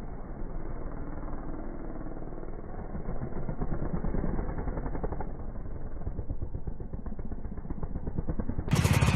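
Dirt bike engine noise in a dull, muffled recording. Near the end it cuts to a much louder, clearer motocross bike engine.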